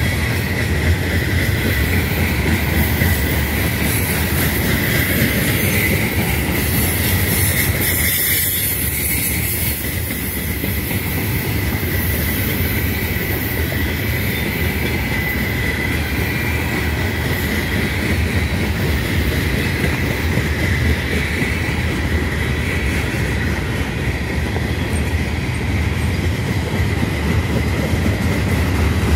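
Loaded covered hopper cars of a freight grain train rolling past, wheels running on the rails in a steady rumble, with a steady high-pitched squeal from the wheels running through it.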